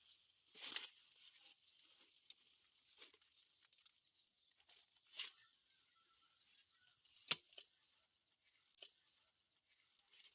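Quiet, scattered tearing and rustling of plant material being handled, about five short bursts a couple of seconds apart, the sharpest about seven seconds in.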